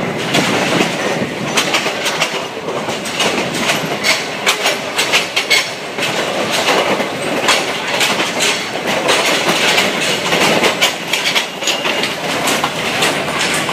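Yangon Circular Railway train running, its wheels clattering over the rail joints in a dense, irregular run of clicks and knocks, heard through an open carriage window.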